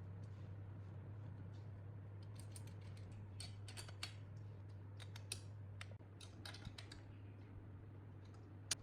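Scattered light clicks and taps of small hard parts being handled, bunched in the middle with one sharper click near the end, over a steady low hum.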